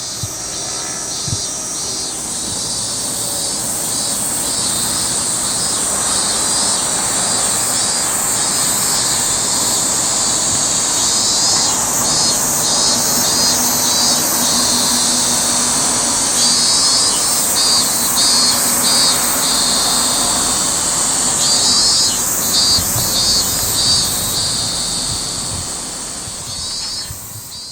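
A dense chorus of summer insects: a steady high shrill with rhythmic pulsing calls over it, over an even noisy background, fading up at the start and down near the end.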